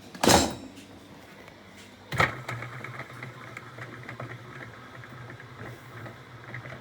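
A loud clunk, then about two seconds in a click and a Bosch dishwasher's pump motor starting up and running with a steady low hum.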